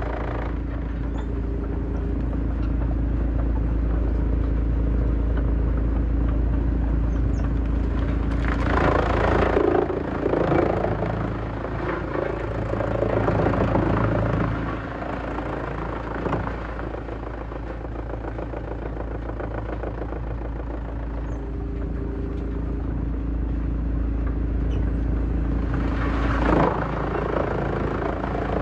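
Heavy-duty wood shredder running with a steady low engine drone, with louder, noisy surges about nine seconds in and again near the end.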